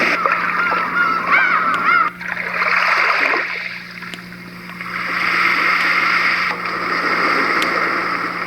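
Recorded ocean surf playing from a small white noise sound machine's speaker: waves washing in, easing off, then swelling again about halfway through. A few high wavering tones come in the first two seconds, over a steady low hum.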